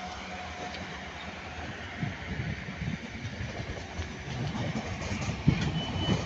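Red South Western Railway Class 455 electric multiple unit running across the junction pointwork, its wheels knocking and clattering irregularly over rail joints and crossings and growing louder. A thin, steady, high wheel squeal joins near the end.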